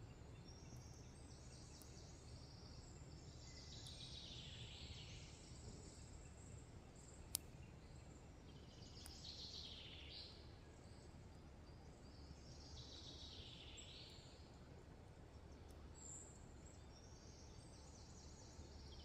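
Faint rainforest ambience: a steady high chirring of insects, with a high trilling call that falls in pitch over about two seconds, heard three times. A single sharp click comes near the middle.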